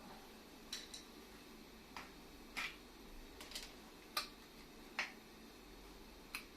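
Light metallic clicks and taps, about nine at irregular intervals, from hand tools and parts being worked during the disassembly of a small four-cylinder air compressor.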